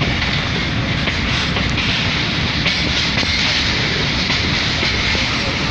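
Train running: a steady rumble and rattle of the railway carriage, with a few faint clicks.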